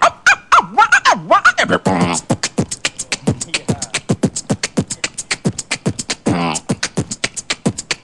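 Human beatboxing: swooping vocal glides for about two seconds, then a fast, steady run of clicking percussive mouth sounds, broken once near the end by a short sung tone.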